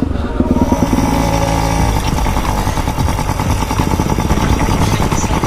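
Motorcycle engine running steadily at low speed, holding an even pitch without revving up.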